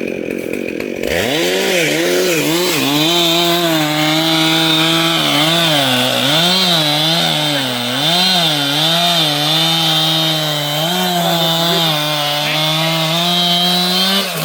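Large two-stroke chainsaw throttled up to full speed about a second in and cutting into wood, its engine pitch dipping and recovering again and again as the chain bites under load.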